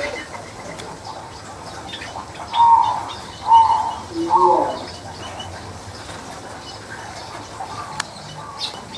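Birds calling: three loud, short calls in quick succession from about two and a half to five seconds in, over faint high chirping.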